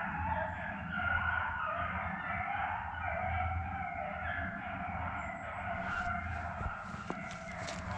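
A pack of deer-hunting hounds howling and bawling together, many voices wavering and overlapping, over a steady low hum, with a few sharp clicks and rattles in the last two seconds.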